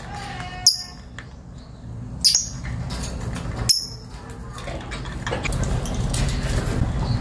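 Lovebirds giving short, sharp, high-pitched chirps, three of them about a second and a half apart, over a low steady hum.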